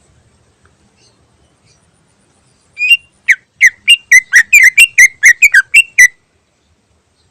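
Greater green leafbird (cucak ijo) singing a quick run of about a dozen short, loud whistled notes, each dropping in pitch, at about four a second. The run starts about three seconds in and stops about a second before the end.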